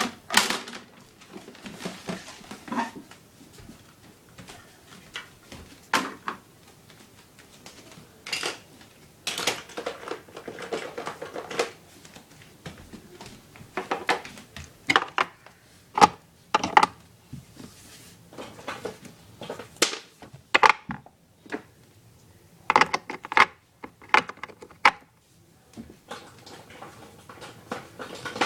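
Plastic parts of an Our Generation toy ice cream truck being handled and set up: irregular clicks, knocks and clatters of small hard pieces, with quieter rustling handling between.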